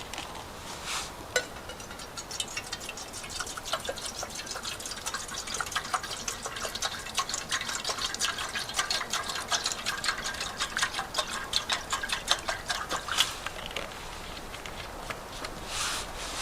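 Water being poured into a container, a dense splashing patter with a faint ringing tone, beginning about two seconds in and stopping about two seconds before the end.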